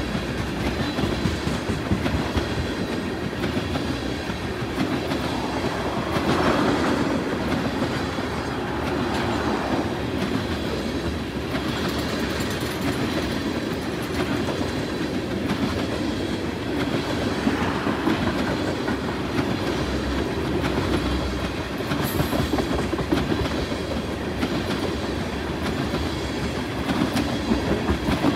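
Unit train of empty ethanol tank cars rolling past: steel wheels clacking over the rail joints with a continuous rumble, swelling and easing every few seconds as the cars go by.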